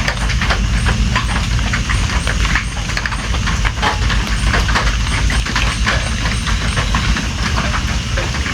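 Steady rain with many separate drops pattering irregularly on a surface, over a constant low rumble.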